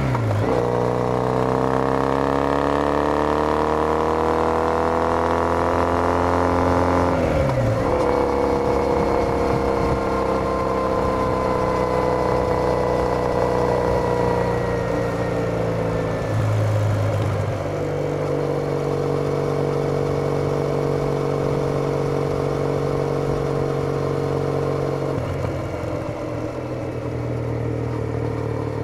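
Triumph Bonneville T214's 865 cc air-cooled parallel-twin engine running through a TOGA aftermarket exhaust, heard from the rider's seat at road speed. The engine note climbs under acceleration for several seconds, dips briefly, then settles into steady cruising that eases a little in level near two-thirds of the way through.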